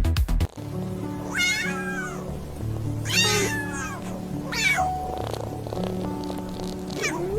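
A domestic cat meowing four times over soft background music: three drawn-out meows that fall in pitch, then a short rising one near the end. A pounding electronic dance track cuts off about half a second in.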